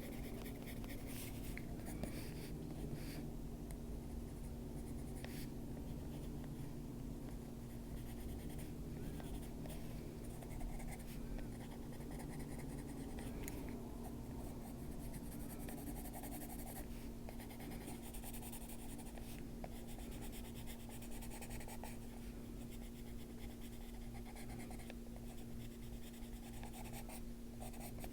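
Coloured pencil scratching on paper in repeated short shading strokes, over a steady low hum.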